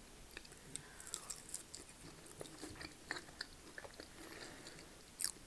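Close-up mouth sounds of a person chewing food, with small irregular crunches and clicks.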